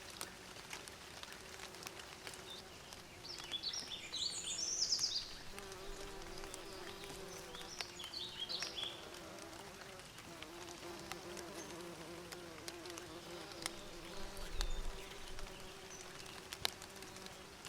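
Bees buzzing steadily around the microphone, with short bursts of birdsong about three and eight seconds in.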